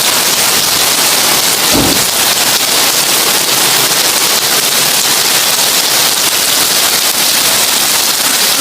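Heavy rain falling on a tin roof: a loud, steady dense hiss of drops. A brief low thump about two seconds in.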